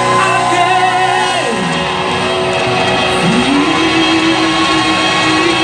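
Loud live rock band playing with no singing, a guitar line gliding slowly between long held notes over the full band, with the echo of a large hall.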